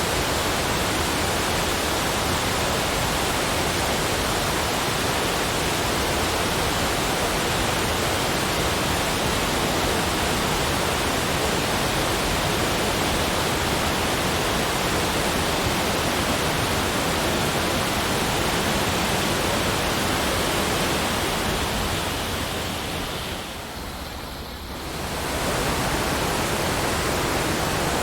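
Steady, even rushing noise of water, with no separate sounds in it. It fades down for a couple of seconds near the end and swells back up.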